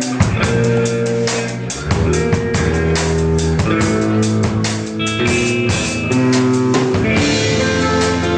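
Rock band playing an instrumental passage: drum kit keeping a steady beat with kick and snare under electric guitar and bass notes, with no singing.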